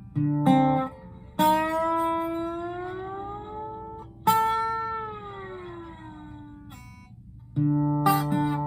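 Instrumental guitar passage: a few short plucked notes, then two long ringing notes that slide slowly in pitch, the first upward and the second downward as it fades, before fresh plucked notes near the end.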